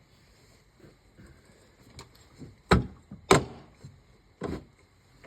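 A few sharp knocks: two loud ones close together a little before the middle, and another about a second later.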